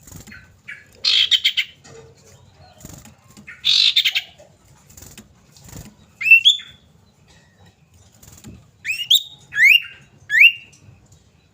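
Common iora calls: two harsh, rattling chatters, then a run of short whistled notes, each rising sharply in pitch, about four in all.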